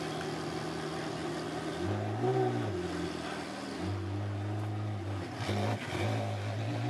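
Ferrari F430 Challenge car's V8 engine running and being revved: the pitch climbs about two seconds in and falls back, holds steady for a while, then dips and climbs again near the end.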